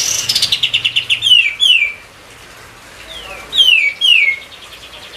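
Kapas tembak, a bulbul, singing loudly. It opens with a rapid chattering trill, then gives two quick runs of clear whistled notes, each note sliding downward.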